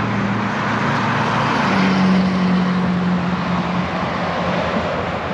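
Road traffic noise: a vehicle passing with a steady low engine hum under the rush of tyres, swelling about two seconds in and then easing off.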